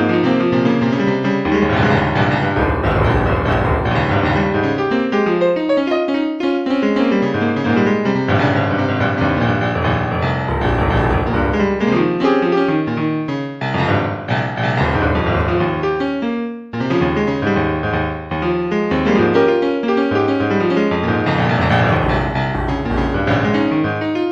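Background music led by piano, a continuous run of notes at a steady level.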